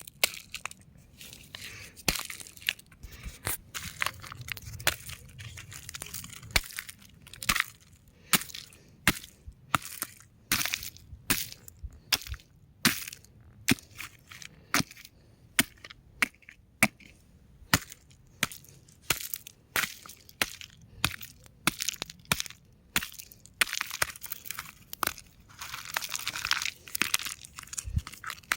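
Rocks cracking and crumbling: a run of sharp, irregular cracks, about one or two a second, with a denser stretch of crunching about three quarters of the way through.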